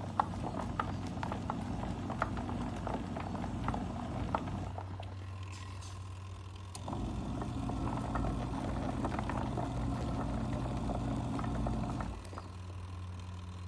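Mini portable washing machine running, its motor humming steadily with light clicking and churning. The motor stops about four and a half seconds in and starts again near seven seconds, the stop-and-go of a wash cycle.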